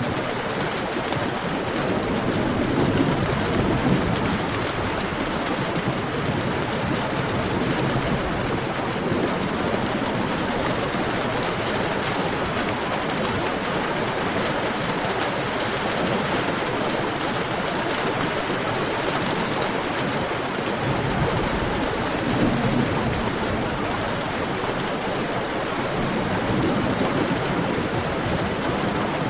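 Heavy rain falling steadily on surfaces, a dense even hiss with the patter of drops; low rumbles swell under it a few times, near the start and twice in the last third.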